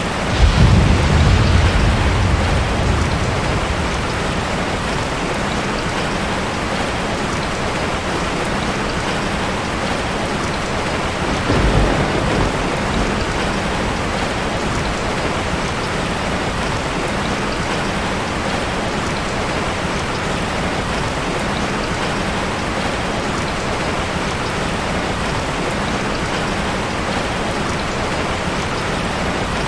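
Steady rushing water noise with two deep rumbling swells, one starting about half a second in and dying away over a few seconds, the other about eleven and a half seconds in.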